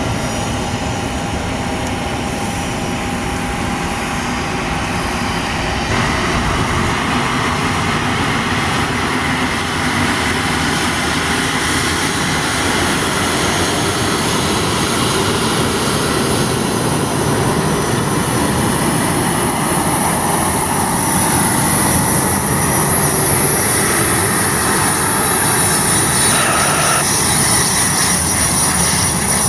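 Jet aircraft on approach to land, a steady rumble and hiss with a high engine whine that grows stronger as it comes closer.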